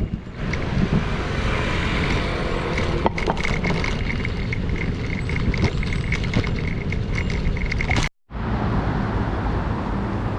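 Wind rush on the microphone and road noise from riding a bicycle along city streets, with a faint steady high-pitched tone through the middle and a brief dropout about eight seconds in.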